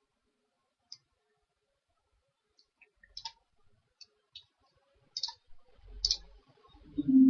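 Scattered clicks of a computer mouse: a few single clicks, then more frequent ones from about three seconds in. Near the end a low steady hum sets in.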